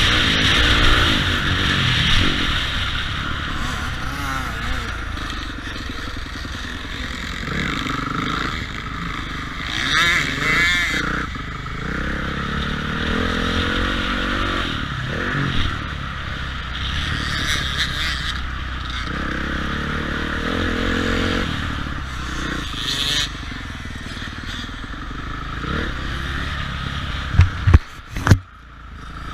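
Motocross dirt bike engine revving up and down as it is ridden, with a few sharp loud knocks near the end.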